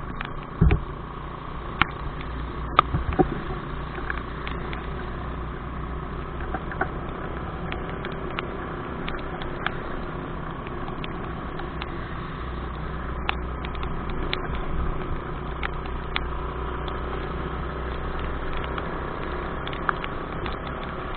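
Motorcycle engine running steadily, a low even hum, with scattered short sharp taps over it.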